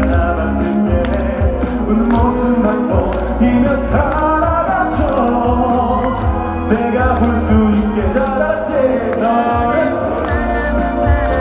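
Live band performance of a pop ballad with a sung vocal line over the accompaniment and a steady beat.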